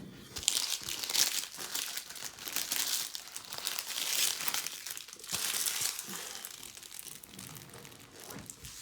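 Foil booster-pack wrapper crinkling as it is handled, in irregular surges that ease off near the end.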